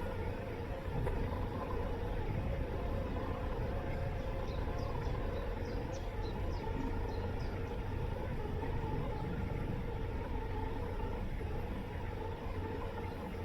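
Robot lawn mower's motors running with a steady hum and low rumble, picked up by a camera taped onto the mower's body. A run of short high chirps comes in about four seconds in and lasts a few seconds.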